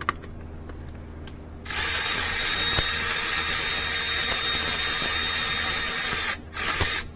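Power tool spinning to run in a starter-motor mounting bolt. It starts about two seconds in and runs steadily for about four and a half seconds, stops briefly, then runs again for a moment near the end.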